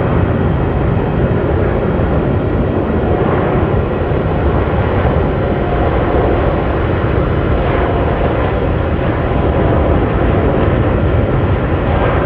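Airliner engines running, a steady loud rumble that stays at an even level throughout.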